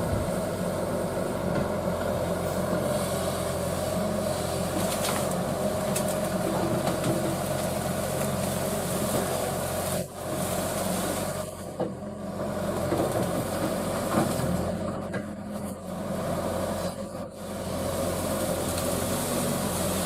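Excavator's diesel engine running steadily under hydraulic load, with a hiss over it. The level briefly drops several times in the second half.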